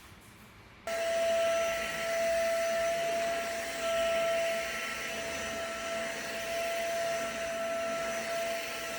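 PLUSMINUSZERO XJC-C030 cordless stick vacuum switched on about a second in, its motor running with a steady high whine over a hiss of airflow.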